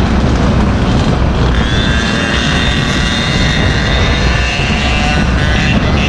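Small engine of a ride-on Goped or mini bike running at high revs under way, its high whine drifting up and down in pitch as the throttle changes, with wind rumbling on the microphone.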